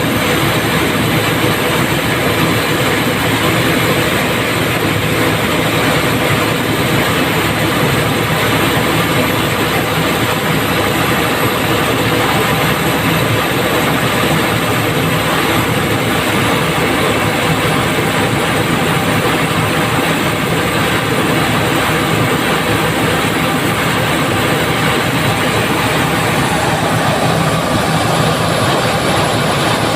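Cummins diesel engine of a 320 kVA generator set running steadily under a test load: a loud, constant engine drone with an even pitch throughout.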